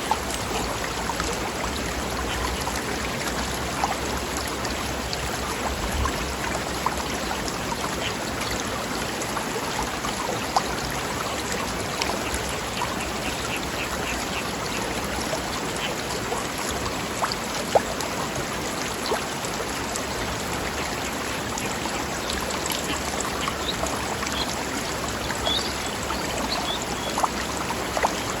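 Stream rushing steadily over rocks, with a few louder splashes here and there.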